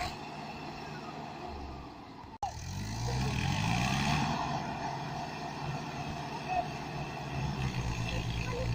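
Mahindra diesel tractor engine running, then, after a brief break about two and a half seconds in, revving up with rising pitch and holding high revs under heavy load as it strains to tow a stuck vehicle free.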